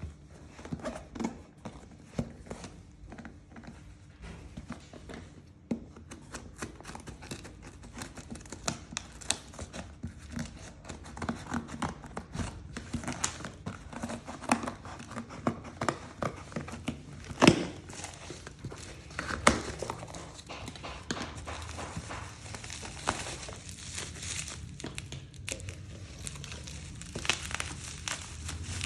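Smartphone packaging being handled and unwrapped: plastic and paper crinkling and tearing, with many small clicks and taps and one sharper knock a little past halfway.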